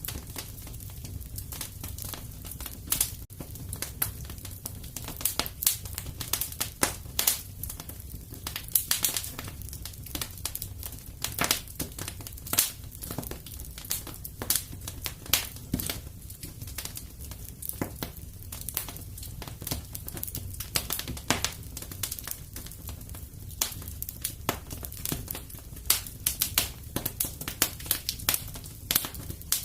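Wood fire crackling in a fireplace: irregular sharp pops and snaps, a few louder ones now and then, over a steady low rumble of the flames.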